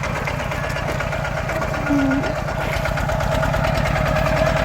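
Tractor engine running steadily with an even low pulse, with a short higher note about two seconds in.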